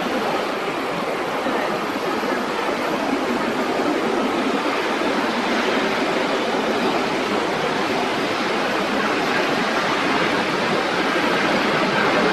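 Jet airliner engines, the IAE V2500 turbofans of a Scoot Airbus A320, heard as a loud, steady rushing noise that grows slightly louder toward the end.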